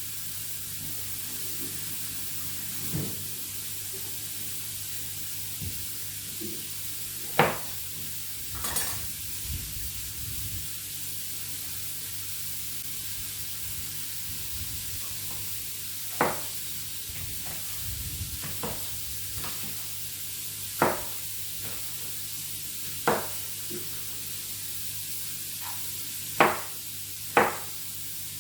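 Meat patties sizzling steadily in a frying pan, with a sharp knock every few seconds.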